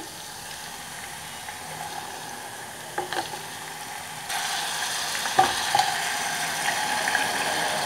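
Crushed garlic frying in ghee in a pot, a steady sizzle, as pieces of boiled bone-in meat are spooned in, with a few light clicks of the spoon against the pot. The sizzle gets louder a little over halfway through.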